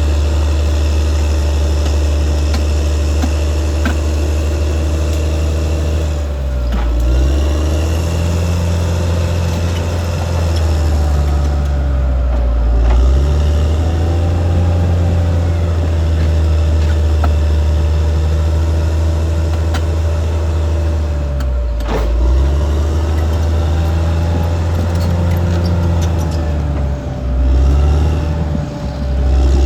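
Caterpillar D6R XL bulldozer working: its diesel engine runs hard, the note dipping and picking back up about four times as the load changes, over a steady high whine and a few metallic clanks.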